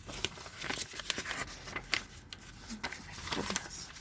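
Old paper being handled, crinkling and rustling with many short, sharp crackles.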